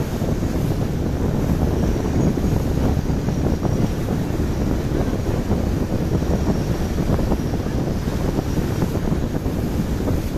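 Wind buffeting the microphone aboard a moving tour boat, over the steady noise of the boat under way: a loud, continuous, fluttering rumble.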